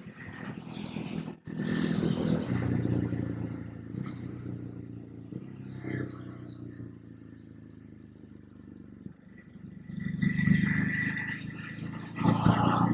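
Ducati Hypermotard's L-twin engine running under way with wind noise, getting louder under throttle a couple of seconds in, again about ten seconds in and near the end, easing off in between.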